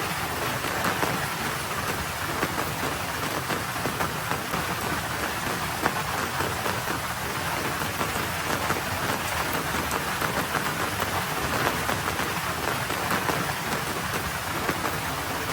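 Light, spitting rain falling on a road surface: a steady, dense patter of drops.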